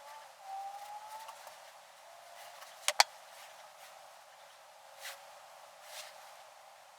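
A brief rising squeak, then two sharp clicks about three seconds in, followed by two softer knocks.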